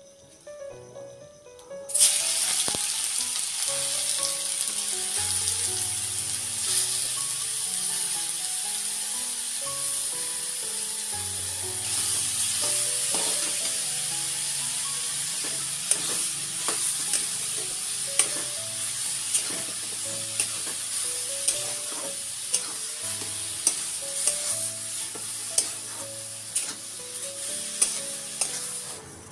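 Grated carrots hit a hot aluminium kadai about two seconds in and start sizzling loudly, a steady frying hiss, while a metal spatula stirs them. The spatula's clicks and scrapes on the pan come often in the second half. Soft background music plays underneath.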